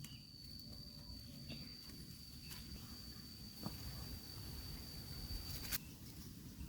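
A steady, high-pitched insect call, one unbroken tone that cuts off suddenly near the end, over a low outdoor rumble with a few faint clicks.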